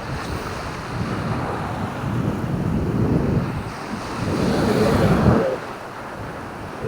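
Sea waves washing onto a beach, with wind buffeting the microphone; a bigger wash swells from about four seconds in and falls away suddenly about a second and a half later.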